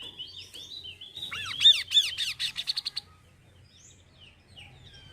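Songbird singing a lure song for the kaso-kaso: a run of quick chirps, then loud arching whistled notes about a second and a half in, then a fast string of short notes that stops about three seconds in, leaving faint twitters.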